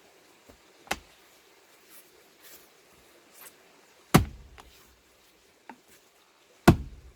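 Axe striking a large plane-tree log being split for firewood: a lighter knock about a second in, then two heavy blows with a deep thud, about two and a half seconds apart.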